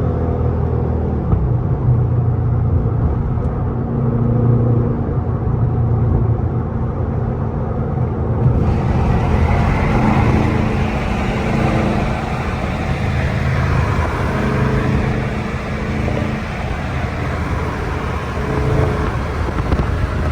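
Dodge 392 (6.4-litre) HEMI V8 running under way, its revs rising and easing a little. From about eight seconds in a broader rushing noise joins the engine.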